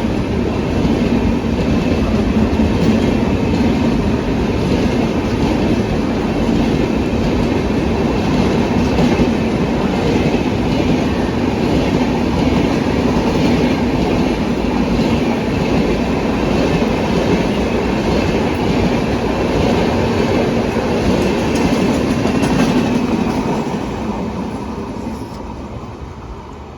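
Golden Temple Mail passenger train's coaches rolling past at speed, wheels clacking over the rail joints, fading away about three seconds before the end as the train draws off.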